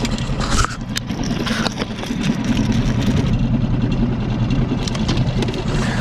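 A small boat's outboard motor idling steadily, with a few light clicks and knocks about a second in.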